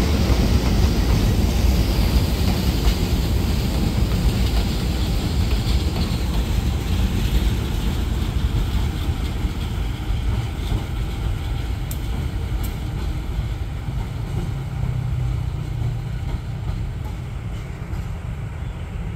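A train running past, with a heavy low rumble and a hiss. The hiss drops away about six seconds in, and the whole sound slowly fades as the train moves off.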